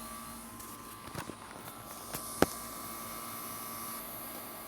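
A Carrier 38CKC central air conditioner condensing unit running with a steady hum. A few sharp clicks come about a second in, and a louder single click comes about two and a half seconds in.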